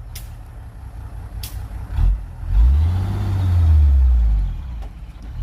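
Heavy machine's diesel engine running low, then revving up under load about two and a half seconds in and easing off near the end. Two short sharp clicks or knocks come early.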